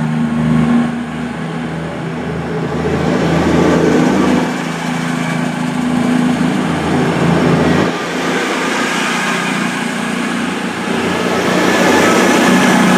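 Class 221 Voyager diesel-electric train pulling out under power, its underfloor diesel engines running with a steady, rising and easing note. Wheel and rail noise grows towards the end.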